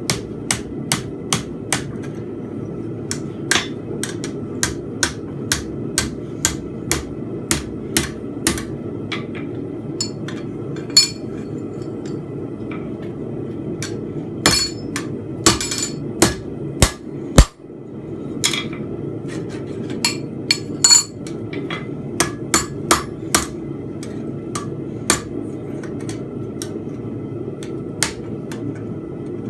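Forging hammer striking hot steel bar on an anvil, in runs of about two blows a second with short pauses, each blow with a bright ring. A steady low rush runs underneath and drops out briefly near the middle.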